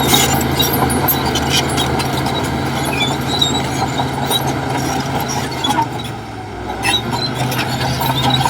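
Heavy diesel engine running steadily, with scattered high metallic clicks and squeaks over it. The engine briefly drops in level about six seconds in.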